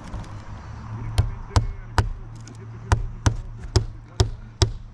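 Hammer blows driving roofing nails into shingles, a quick run of sharp strikes about two to three a second starting about a second in, over a steady low hum.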